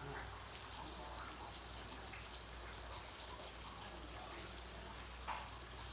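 Steady rain falling: an even hiss with scattered small drips.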